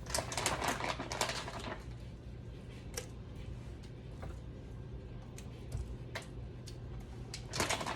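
Knife chopping on a cutting board: a quick run of strokes for the first couple of seconds, a few single taps, then another run near the end.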